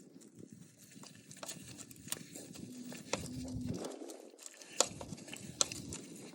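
Faint, irregular metallic clicks and taps of hand tools and small parts as a bolt and the shift detent lever with its spring are taken off an automatic transmission.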